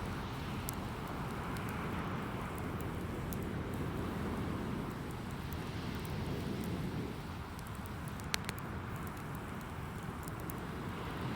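Strong wind buffeting the microphone with a steady rush, over a driftwood campfire crackling in scattered sharp pops, one louder pop about eight seconds in.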